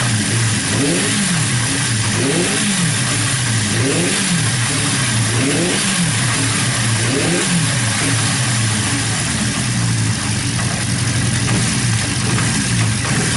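Honda CB400F 408cc air-cooled inline-four engine, fitted with an aftermarket exhaust, revved in about five short throttle blips roughly a second and a half apart, then settling to a steady idle about eight seconds in.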